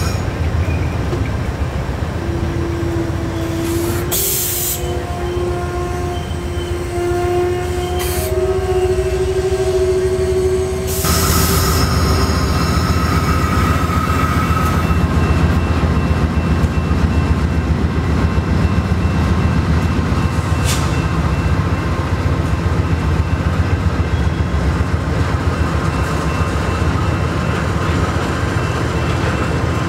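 VIA Rail passenger train at a station platform: a steady diesel locomotive rumble, with a drawn-out whine rising slightly in pitch over the first ten seconds. Short sharp air hisses come near 4, 8 and 11 seconds, and the rumble grows louder after about eleven seconds.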